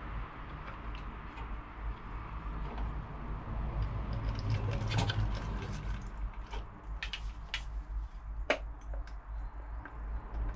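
Scattered small clicks and taps of hands working on a mains plug's terminals and wires, over a steady low hum.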